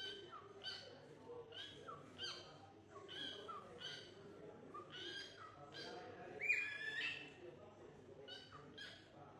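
Parrot giving a run of short, repeated calls that drop in pitch, about one to two a second, with the loudest call about six and a half seconds in.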